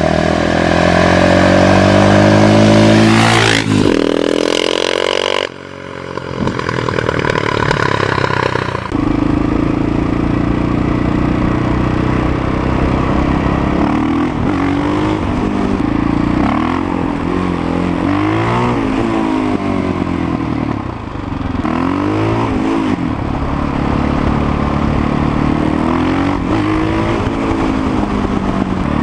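Motorcycle engine: for the first few seconds the bike passes close by, its note falling in pitch as it goes. Then an engine revs up and down repeatedly, rising and falling every second or two.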